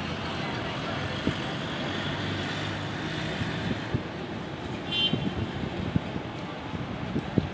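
Road traffic passing steadily, with a short high beep about five seconds in.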